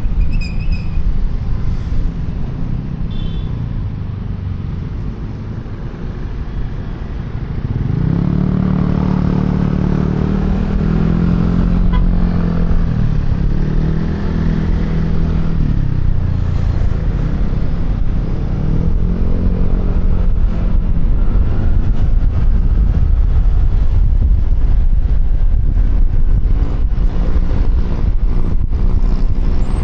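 Riding on a QJMotor Fortress 160 scooter: a steady engine rumble with wind and road noise on a helmet-mounted microphone. From about 8 to 16 seconds in, an engine note grows louder and rises and falls in pitch a few times, as in accelerating and easing off.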